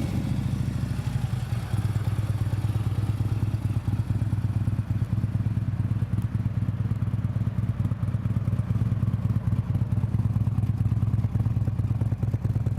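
Harley-Davidson CVO Ultra Limited's 110-inch Screaming Eagle Twin Cam V-twin idling steadily through Vance & Hines Power Duals exhaust, just after being started. It gives a low, even, pulsing rumble.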